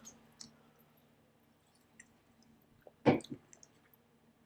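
A person's mouth and breath noises while reeling from the burn of a very hot pepper tincture: a few soft lip and tongue clicks, then a short, sharp breath about three seconds in with a smaller one just after.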